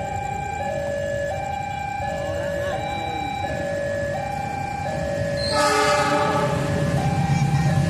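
Railway level-crossing warning alarm sounding, alternating between two tones about every 0.6 s. About 5.5 s in, a diesel locomotive's horn blasts and the locomotive's low rumble builds as it approaches.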